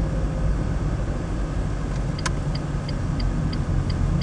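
Car cabin road and engine rumble while driving. About two seconds in there is a sharp click, followed by the turn-signal indicator ticking steadily, about three ticks a second.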